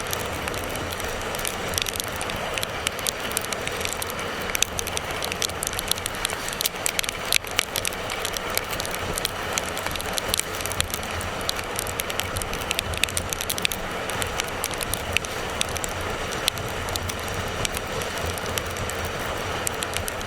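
Motorcycle ride in the rain: steady wind and road rush with a low engine hum, peppered with many sharp crackling ticks of raindrops striking the camera.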